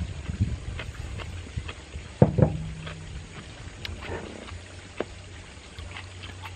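A man eating with his hands: wet chewing and lip-smacking clicks, with one loud, short, throaty sound of enjoyment about two seconds in, held for about a second.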